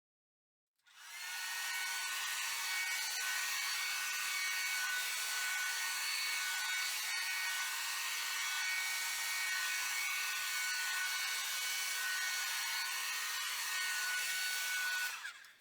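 Hair dryer blowing steadily with a high motor whine, switched on about a second in and off near the end, used to push wet acrylic paint across a canvas.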